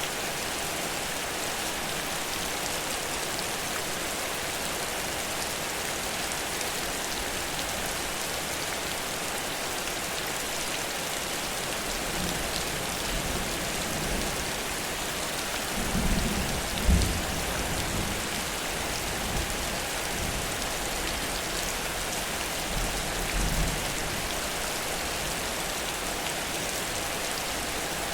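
Heavy rain falling steadily in a downpour. Low rumbles of thunder come in about midway, loudest around two-thirds of the way through.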